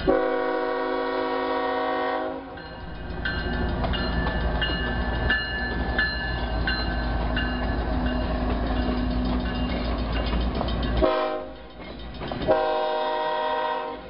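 BNSF GE ES44C4 diesel locomotive's air horn: a long blast, then after several seconds of train rumble with a repeated ringing, a short blast and another long one, the pattern of a grade-crossing warning.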